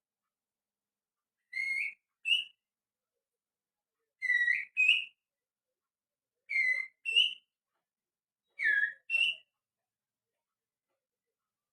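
Finger whistling, blown through the little finger, imitating a white-rumped shama's song: four paired phrases about two seconds apart, each a lower whistled note followed at once by a higher one.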